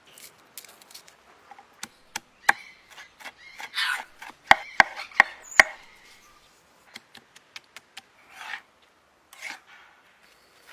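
A knife chopping on a wooden board: irregular sharp knocks, with a run of four loud strokes in quick succession around the middle, and short scraping sounds in between.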